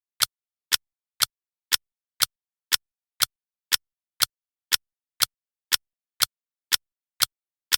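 Clock ticking steadily, two sharp ticks a second, evenly spaced, with dead silence between them.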